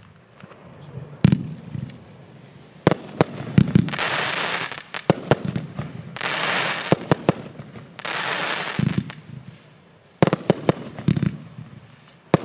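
Rubro Cracker Finale XL 60's firecracker string going off: clusters of sharp bangs, with stretches of dense crackling between them about three and six seconds in.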